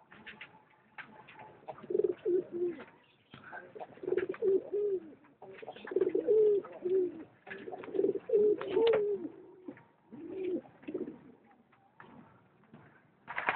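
Domestic pigeons cooing, several low rolling coos in clusters every second or two, mixed with scattered short clicks and rustles.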